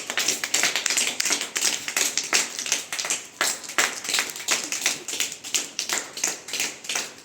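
Rain clapping by a group: many people tapping fingers against their palms out of step, making a dense, irregular patter that imitates rain.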